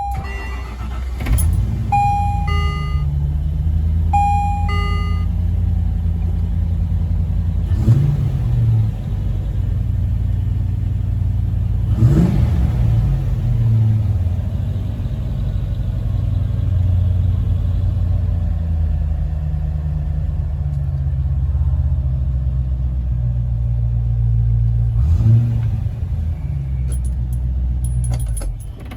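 1995 Land Rover Defender 90's engine cold-starting: it cranks briefly about a second in, catches and idles, is blipped three times with short revs spread through the run, and is shut off near the end. A few electronic beeps sound over the first few seconds.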